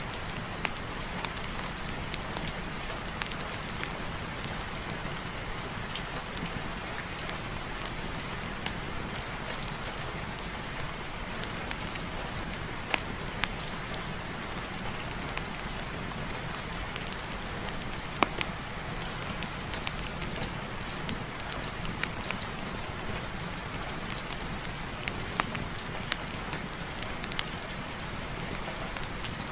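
Steady, even rain with many scattered sharp clicks and pops; a couple of louder ones come partway through.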